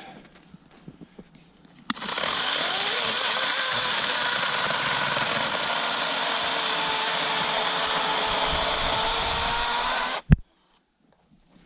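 LYNXX 40V battery electric chainsaw cutting into a log for about eight seconds, starting about two seconds in: a steady motor whine with the chain rasping through the wood, its pitch dipping slightly under load. It cuts off suddenly and is followed by a single sharp thump.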